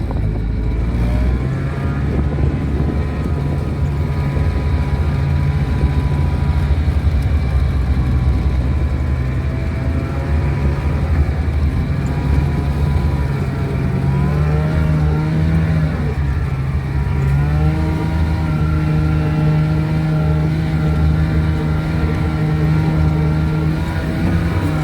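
Engine of a 1970 Cony kei truck running under way. Its note climbs around the middle, drops briefly and then holds steady at a higher pitch.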